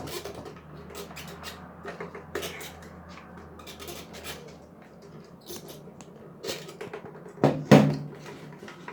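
Plastic fuel pump and filter unit clicking and knocking as it is worked loose by hand from its housing, with one louder knock near the end.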